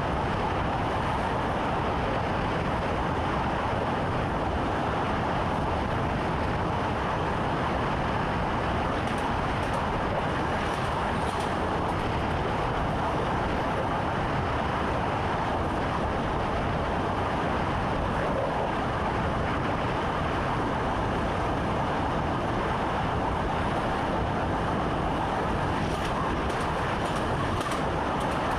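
Train running steadily, heard from inside the driver's cab, a constant rolling noise with a few faint clicks about ten seconds in and again near the end.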